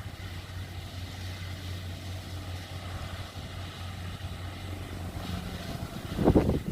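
Rice combine harvester's engine running steadily with a low hum. Near the end, wind buffets the microphone in loud gusts.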